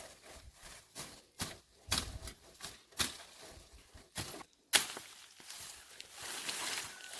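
A run of sharp knocks at uneven intervals, roughly two a second, the loudest about two-thirds of the way in, followed by a stretch of hissing, scraping noise.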